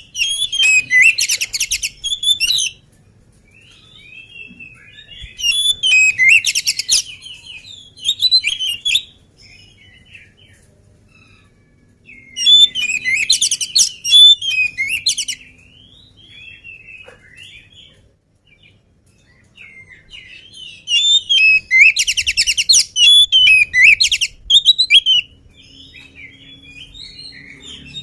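Oriental magpie-robin (kacer) in full song: four loud bursts of fast, high trilling and whistling, each two to four seconds long, with softer twittering and chatter between them.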